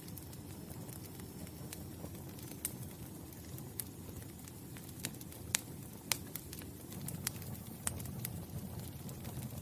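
Wood fire burning with a steady low rumble and irregular sharp crackles and pops, a dozen or so scattered through, the loudest two about halfway.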